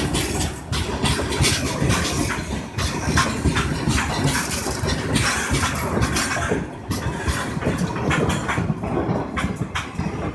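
Loaded freight train of open steel box wagons rolling past: a steady rumble of wheels on rail with frequent sharp clanks and rattles. The brake van passes last, and the sound thins near the end as the train moves away.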